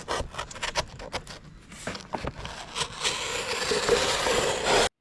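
Crackling and scraping of hive-roof materials being handled: a run of sharp crackles and taps, then a denser continuous rustle over the last two seconds that cuts off abruptly.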